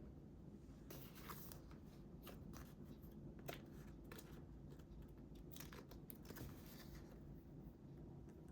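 Faint scissors snipping through paper, with soft paper rustles, in a few short runs of quick cuts over a low steady room hum.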